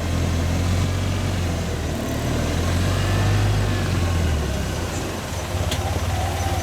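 Vehicle engine running with a steady low hum, which about four seconds in drops to a rapid, even pulsing idle.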